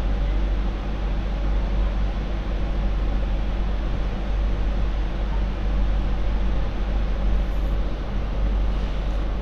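MTR Light Rail Phase IV light rail vehicle running along the track, a steady low rumble with an even running hum.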